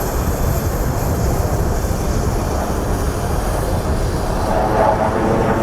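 Jet noise from Su-30SM fighters' twin turbofan engines in a display flypast: a loud, steady rumble, with a louder, higher-pitched whine joining about four and a half seconds in.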